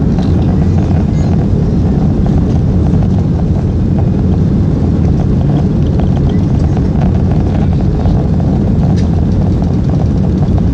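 Airliner cabin noise heard from inside the plane: the engines and airflow make a loud, steady low rumble during the climb after takeoff.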